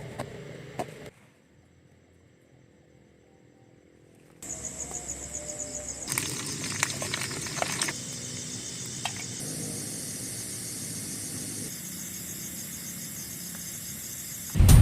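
Forest insects chirping in a fast, even pulsing trill, with scattered clicks and knocks. There is a gap of near silence of about three seconds starting a second in, and the chirping sets in abruptly after it.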